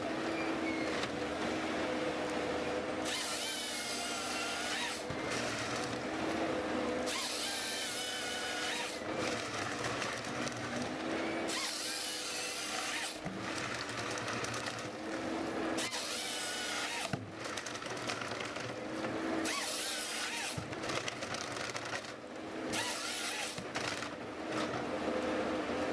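Power tool working wood in repeated bursts a second or two long, some with a whine that rises and falls in pitch, over a steady hum.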